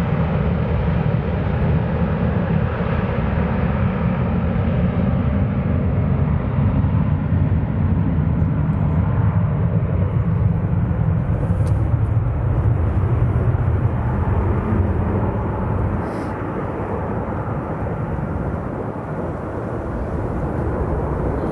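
Jet airliner's engines rumbling steadily as the plane passes, easing off after about sixteen seconds.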